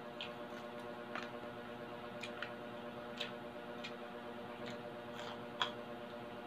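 Close-miked chewing of crispy fried pork belly: scattered sharp crunches and mouth clicks at an uneven pace, the loudest one near the end.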